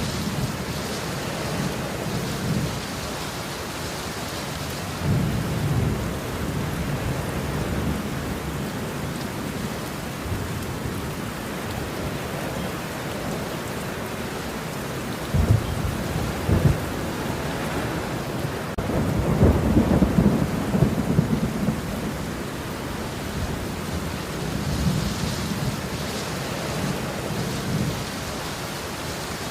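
Steady rain with thunder rumbling on and off: two sharp cracks about halfway through, then the loudest rolling rumble shortly after, with softer rumbles near the start and near the end.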